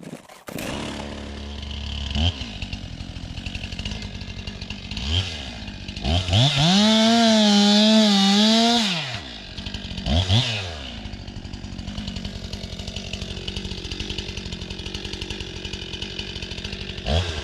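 STIHL MS 261 two-stroke chainsaw running at idle with short throttle blips, then revved hard for about three seconds in the middle with its pitch wavering before dropping back to idle. There is another quick blip near the end.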